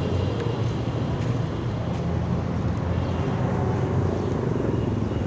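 Steady low rumble of road traffic with engines running.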